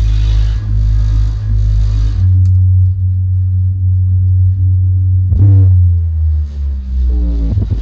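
Deep sub-bass notes played loud through a large event sound system under test. Hiss-like highs ride over the bass in the first two seconds, and there are falling pitch sweeps about five and a half and seven and a half seconds in.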